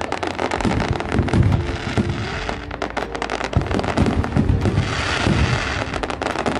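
Dense barrage of aerial fireworks: rapid, overlapping bangs and crackling from many shells bursting at once, with no pause.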